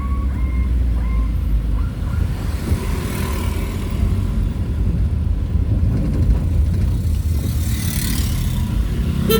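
Vehicle driving on the road: a steady low engine and road rumble, with a rising and falling whoosh of passing traffic about three seconds in and again near the end.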